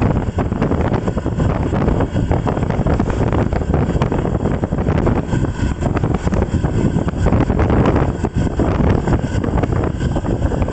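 Wind buffeting the microphone: a loud, steady, rumbling rush that flutters throughout.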